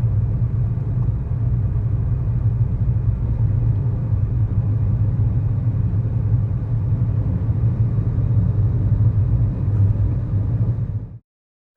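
2011 Kia Morning's 999 cc four-cylinder SOHC engine and road noise heard inside the cabin while driving: a steady low drone that cuts off abruptly near the end.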